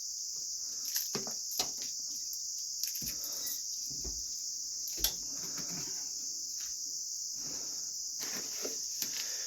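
Steady high-pitched chorus of crickets, with scattered light rustles and clicks as a gift package is opened, the sharpest click about five seconds in.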